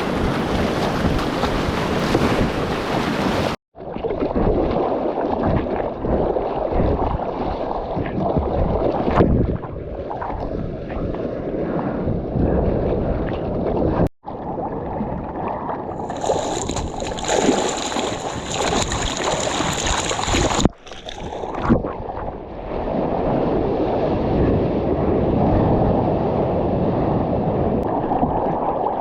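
Surf and rushing water mixed with wind noise on a GoPro's microphone while surfing, in several clips cut together with abrupt breaks about 4, 14 and 21 seconds in. A steady high whistle sounds for a few seconds in the second half.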